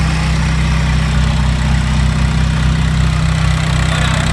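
Audi A4 B5's 1.9 PD four-cylinder turbodiesel idling steadily on its first run after a ported head, a larger GT2260 turbo and a custom exhaust manifold.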